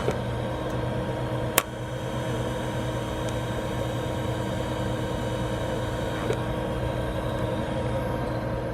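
TIG welding arc on thin sheet metal: a steady electrical buzz with a hiss over it, and one sharp click about a second and a half in.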